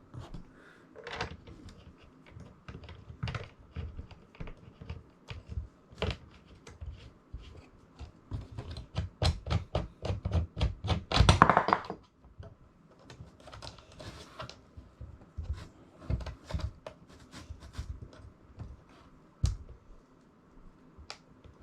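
Hand assembly of small hardware and parts: irregular clicks, taps and knocks as pieces are handled and fitted, with a dense run of rapid clicking about eight to twelve seconds in, loudest near the end of that run.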